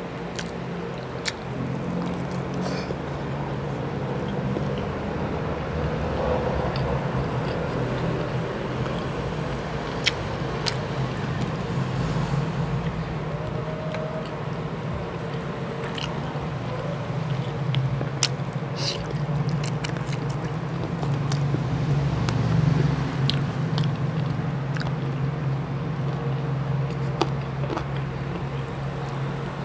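Close-miked chewing and mouth smacking while eating chicken adobo and rice by hand, with scattered short clicks of lips and sticky fingers. A steady low hum runs underneath.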